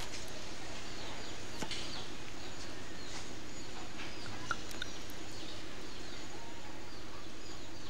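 Birds chirping faintly and sporadically over a steady hiss, with one short, sharp tick about four and a half seconds in.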